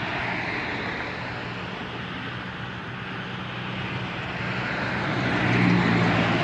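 Road traffic, with a truck's engine hum and tyre noise building as it passes; loudest about five and a half seconds in.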